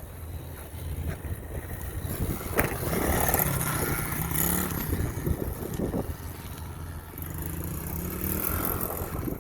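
SSR 110 pit bike's small single-cylinder four-stroke engine running as it is ridden, the pitch rising and falling with the throttle; it gets louder about three seconds in, fades, and rises again near the end.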